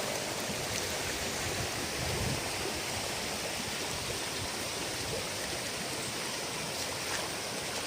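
Steady rush of fast-flowing water in the shallow overflow stream of a dam lake, where it runs on into a waterfall.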